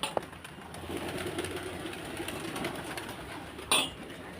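Pigeons cooing, a low wavering call, with a short sharp click at the start and a brief loud noise just before the end.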